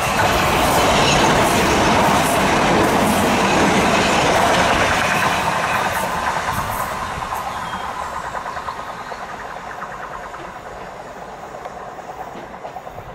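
Electric multiple-unit passenger train going past on the track, loudest over the first few seconds, then fading away as it moves off, with a few wheel clicks over the rail joints early on.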